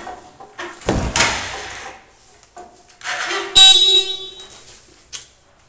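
A motorcycle's electric horn sounding one short beep a little past halfway, the loudest sound here. About a second in there is a low thump.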